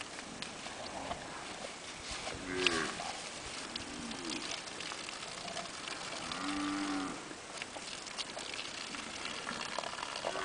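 Cattle mooing: three short calls, the longest about six seconds in.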